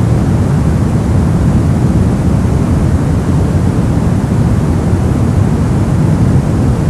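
Brown noise: a steady, deep rumbling hiss with most of its energy low down and little treble, unchanging throughout.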